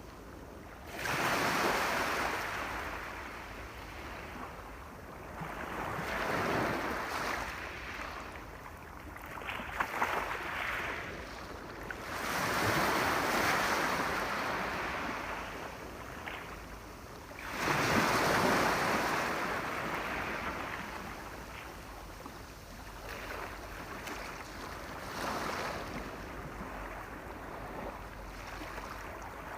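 Sea waves breaking and washing in, a rushing surge that swells and fades about every five to six seconds, with a few small sharp clicks about ten seconds in.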